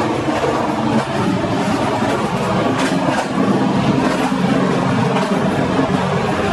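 Locomotive-hauled TLK passenger train running along the track at speed: a steady rolling rumble of wheels on rails, with a few sharp clacks over rail joints about halfway through.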